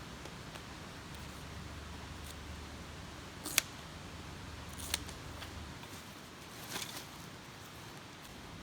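A few sharp clicks, the loudest about three and a half seconds in, another at about five seconds and a short cluster near seven, over a steady low hum that stops just before six seconds.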